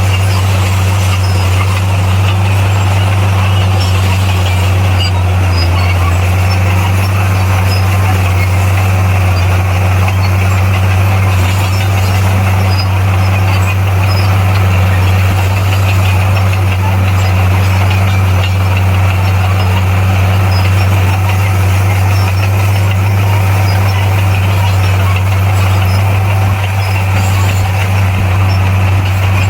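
Komatsu D58P bulldozer's diesel engine running at a steady pace, a constant low hum with a hiss over it.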